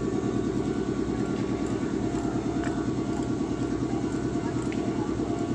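Steady mechanical rumble from a Meitetsu train, even in level throughout, with a faint steady whine above it.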